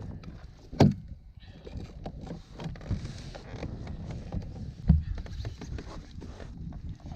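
Knocks and small clatter from gear being handled on a kayak, with two heavier thuds, one about a second in and one near five seconds in.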